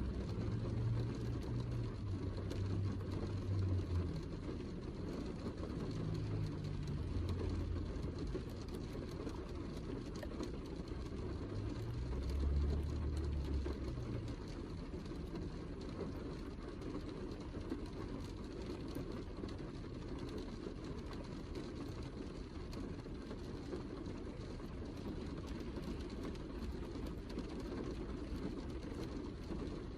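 Steady heavy rain falling, a dense even patter with fine scattered drop ticks. A low rumble swells during the first few seconds and again about twelve seconds in.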